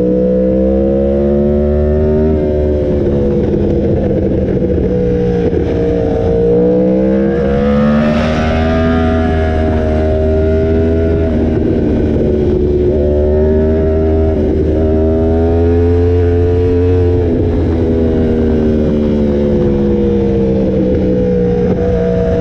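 Yamaha YZF-R1M's crossplane inline-four running through an SC Project exhaust, heard onboard under way. The engine note climbs and drops in pitch several times as the throttle opens and closes.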